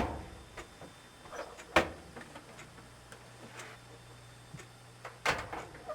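Clunks and clicks of a dryer door being handled and its hooks worked into the cabinet: a sharp knock at the start, another just under two seconds in, and a louder clatter near the end, with small ticks between.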